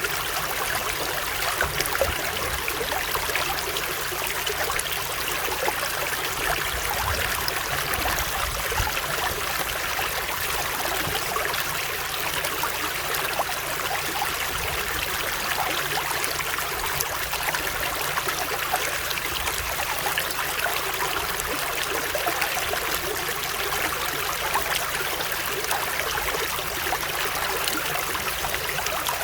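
Running water of a stream flowing steadily, an even rushing sound with no breaks.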